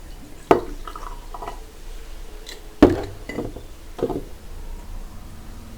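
Glass bottles and cups handled and set down on a table during a drink tasting, making a few sharp knocks and clinks. The loudest comes a little before the middle.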